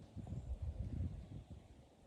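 Wind buffeting the microphone: an uneven low-pitched rush that swells a moment in and eases off after about a second and a half.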